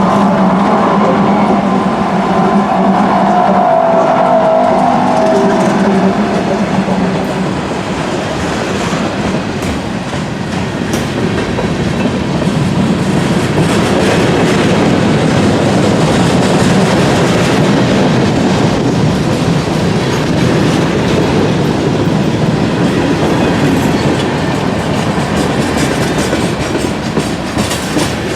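Freight train hauled by GE AC4400CW diesel locomotives rolling past. A steady engine hum fills the first few seconds, then gives way to the continuous rumble and wheel clatter of the freight cars going by.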